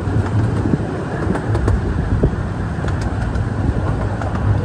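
Steady low rumble with scattered light clicks from a Romney, Hythe & Dymchurch Railway 15-inch gauge train running along the track.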